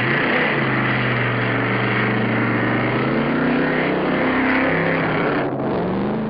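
Monster truck engine sound effect: a big engine running and revving, its pitch wavering a little, then dropping and fading about five and a half seconds in.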